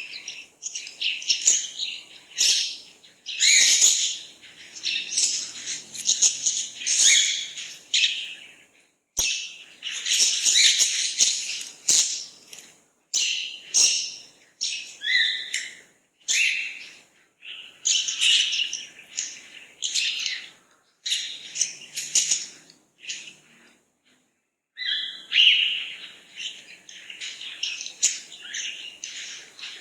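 Birds chirping and calling, a dense chorus of short high-pitched notes overlapping one another, broken by brief pauses about nine seconds in and again about two-thirds of the way through.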